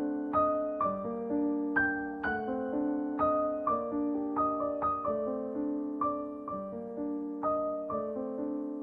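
Background music: a gentle piano melody, notes struck at an even, unhurried pace.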